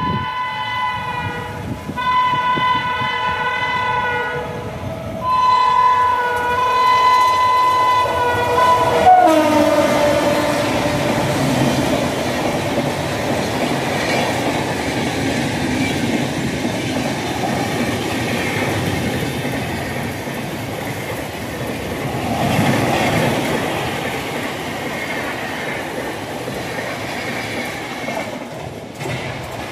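Passing express passenger train: the locomotive's multi-tone horn sounds three long blasts, the last dropping in pitch as it goes by, then the coaches rush past with a steady rumble and wheel clatter that swells briefly and fades near the end.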